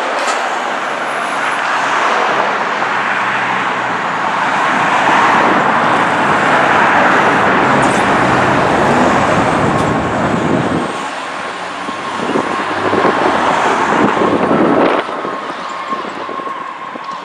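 A 2002 Pierce Dash aerial tower fire truck driving past on an emergency response, its engine and road noise loud and peaking near the middle. The noise drops off sharply about 15 seconds in, and a steady high tone carries on through the last few seconds.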